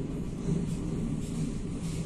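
Running noise heard inside a moving passenger train coach: a steady low rumble of the wheels on the track, with faint brief hissing above it.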